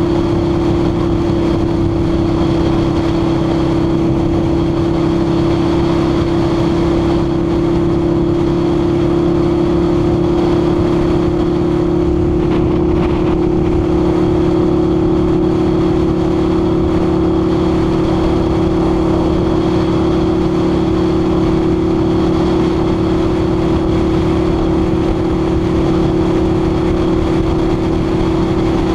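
Harley-Davidson V-Rod's liquid-cooled V-twin engine running at a steady cruise, a constant drone that holds one pitch, mixed with wind rushing past the microphone.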